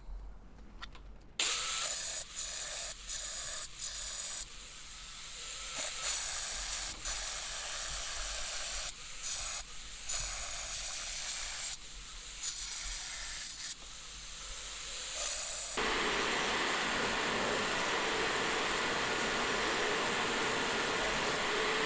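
Abrasive grinding of high-carbon steel: a high hiss that breaks off in short stretches, then runs on steadily and fuller from about two thirds of the way in.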